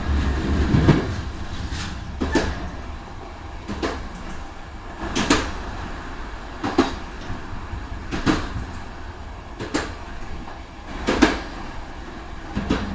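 Passenger train running on jointed track, heard at the rear door of a carriage: a steady low rumble, with a sharp wheel clack over a rail joint about every one and a half seconds.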